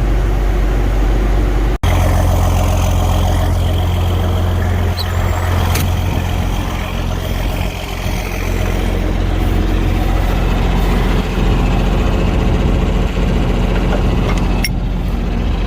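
Farm tractor engine running steadily with a deep, even drone, broken by a short gap about two seconds in, with a few faint clicks later.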